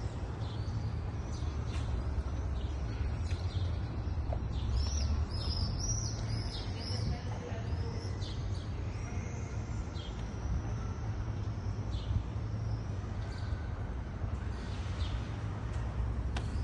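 Small birds chirping in short, repeated high notes, busiest a few seconds in, over a steady low rumble.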